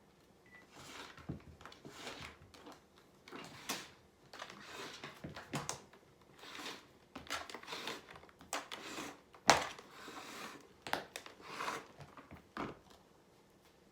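Irregular rustling and crinkling from things being handled, with light knocks and one sharper knock about nine and a half seconds in.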